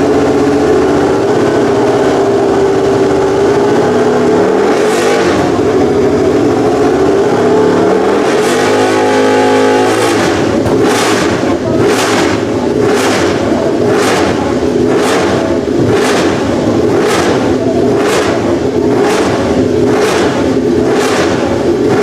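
Honda RC213V MotoGP bike's V4 engine running at a fast, steady idle, rising in a rev about halfway through. After that, the throttle is blipped sharply about once a second.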